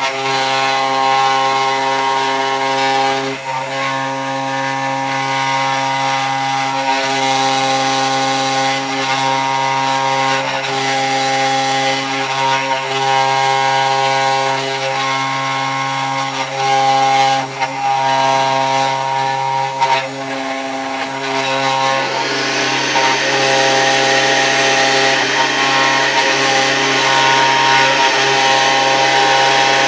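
CNC 3018 Pro router's spindle motor running as the bit cuts into a wooden cheeseboard, a steady whine of several tones over the cutting noise, sped up seven times. About 22 seconds in the sound changes, with more hiss and fewer of the lower tones.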